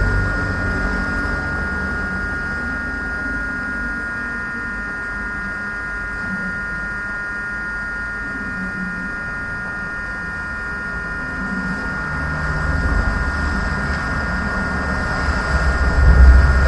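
Steady machine hum: a constant high whine over a low rumble, the rumble swelling twice, most strongly near the end.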